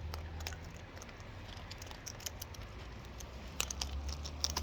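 Scattered light clicks and taps from a wild cockatoo's beak and claws as it eats banana, coming thicker near the end, over a steady low hum.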